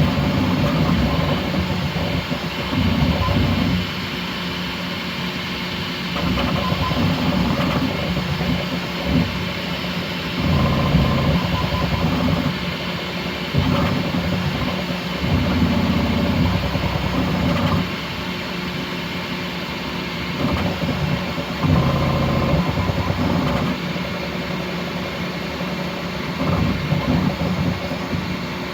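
Bambu Lab X1C 3D printer running a high-speed print: stepper motors whining and buzzing as the toolhead moves, over a steady fan hum. The level rises and falls every second or two as the moves change.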